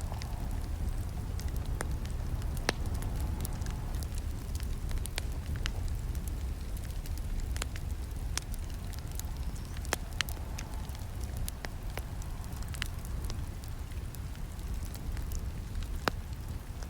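Campfire burning, with sharp crackles and pops at irregular intervals over a steady low rumble of the flames. A few pops stand out louder, about three seconds in, around ten seconds and near the end.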